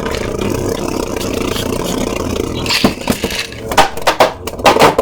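Beyblade Burst spinning tops whirring and scraping against each other and the plastic stadium, then a few sharp clacks near the end as they collide.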